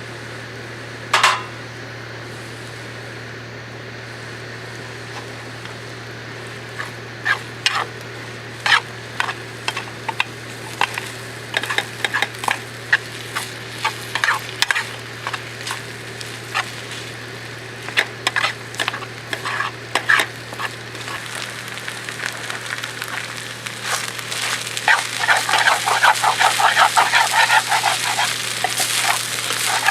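Food sizzling in a pan over camp heat, with scattered sharp crackles and ticks that thicken into a steady, louder sizzle in the last few seconds.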